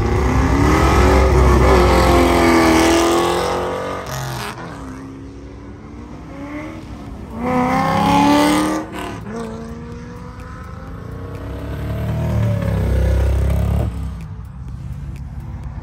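Cars accelerating past one after another, each engine revving up and falling away as it goes by. The loudest and quickest pass, about eight seconds in, is a C5 Corvette's V8; a C3 Corvette's V8 swells up again near the end.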